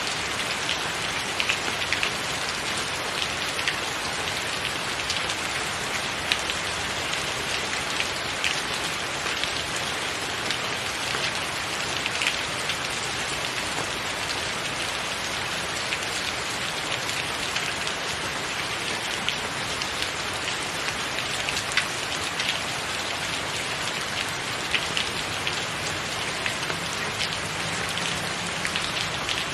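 Steady rain falling on a roof, with frequent sharp drips and splashes of individual drops standing out over the even hiss of the shower.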